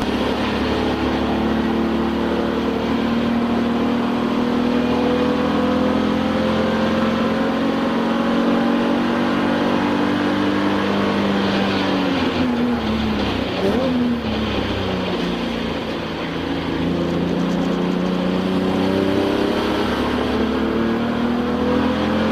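Touring-class race car's engine heard from inside the cabin at racing speed, running at high revs. The engine note sags slowly, dips and climbs sharply about two-thirds of the way through, then rises again toward the end.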